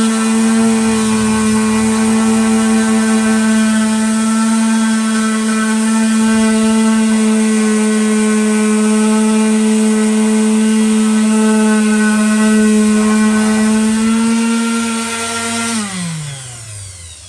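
Electric power sander sanding a wood round, its motor running steadily at one pitch; about sixteen seconds in it is switched off and the whine falls away as the motor spins down.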